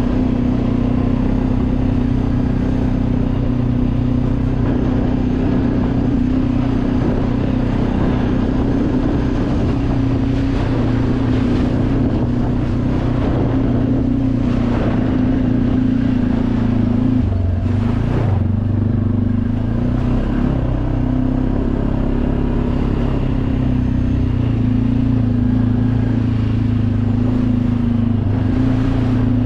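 Enduro dirt bike engine running at a steady road speed, with wind noise on the helmet-mounted microphone. About two-thirds of the way through, the engine note briefly drops and wavers, then settles back to a steady pitch.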